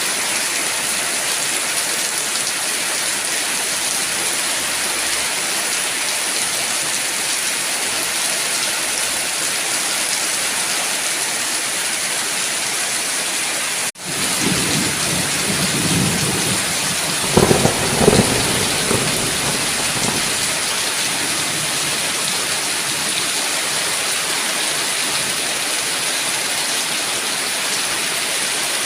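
Steady heavy rain falling. About halfway through, the sound cuts out for an instant, then a thunder rumble rolls in for about five seconds, with two sharper claps in the middle.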